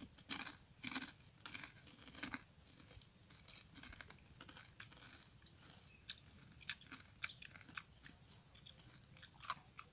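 Faint, irregular crunching as crisp deep-fried macaroni in fish sauce is chewed, with small mouth clicks. The crunches come thicker in the first couple of seconds and again near the end.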